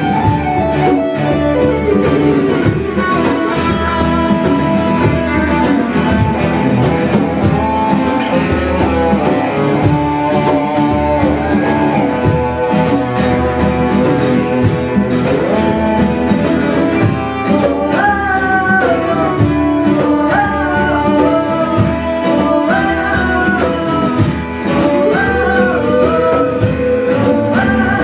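Live band playing an instrumental passage of an original song: guitar accompaniment under a wandering lead melody line, steady and continuous.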